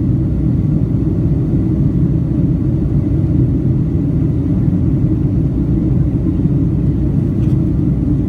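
Steady low rumble of an airliner's engines and airflow, heard inside the cabin after takeoff.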